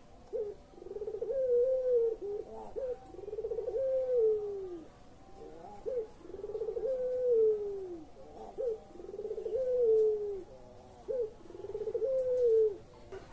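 Puter pelung dove cooing, about five phrases in a row: each a short clipped note followed by a long trilled coo that rises and then falls away.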